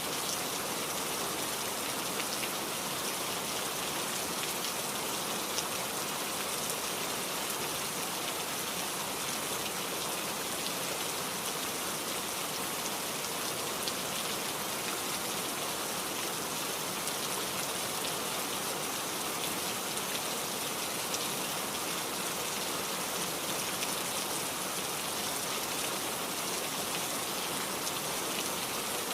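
Heavy rain falling steadily, an even hiss of rain on surfaces with scattered individual drop hits.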